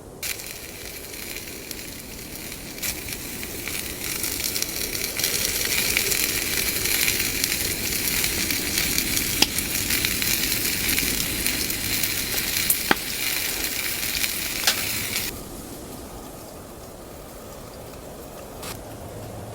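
Food sizzling as it fries in a hot pan, with a few sharp pops. The sizzle starts suddenly and cuts off abruptly about three-quarters of the way through, leaving a quiet low background.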